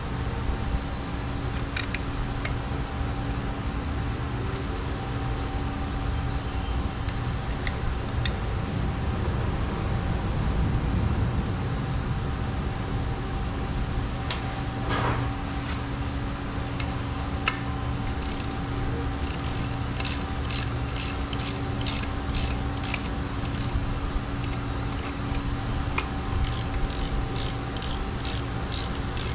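Ratchet wrench clicking in runs of quick, even clicks, mostly in the second half, as the bolts of a Force 40 hp outboard's water pump housing are run back in. A steady low hum runs underneath.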